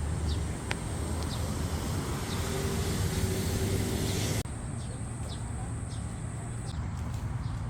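Outdoor forest ambience: a steady low rumble with small birds chirping briefly and repeatedly. A hiss in the first half cuts off abruptly about four and a half seconds in.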